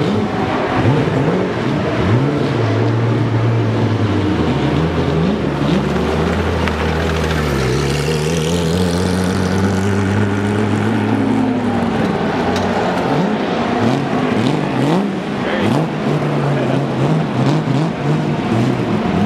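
Race car engines passing one after another on a circuit, their notes rising and falling through gear changes. Through the middle one engine holds a low note that dips and then climbs again.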